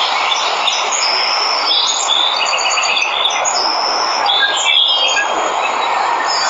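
Steady rushing of a waterfall, with many birds chirping and trilling over it; the birds are busiest in the middle.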